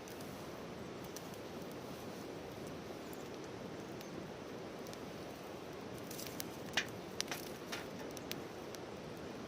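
Wood campfire burning with a steady low hiss, then a quick run of sharp pops and crackles from the burning firewood about six to eight seconds in.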